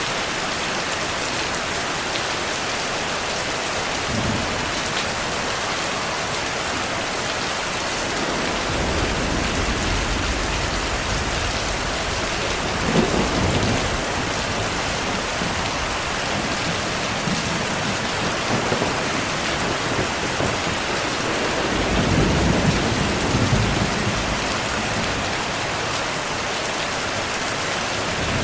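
Steady heavy rain hissing, with rolling thunder rumbling in the low end from about eight seconds in: a sharper crack near the middle and a longer swell of rumbling late on.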